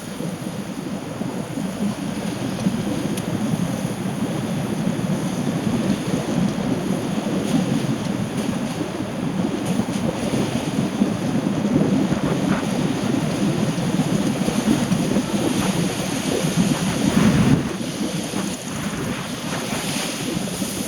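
Steady low rushing noise of wind and rain, louder and rougher for a moment near the end before dropping back suddenly.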